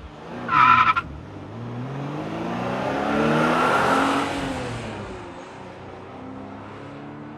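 A car engine revving up and easing off, its pitch climbing to a peak about four seconds in and then settling back to a steady low run. A short high squeal, like a tyre chirp, comes about half a second in.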